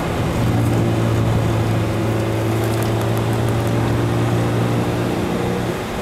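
Renault Clio's engine under way, heard from inside the cabin over road and wind noise. Its note drops in pitch just after the start, holds steady, then fades back near the end.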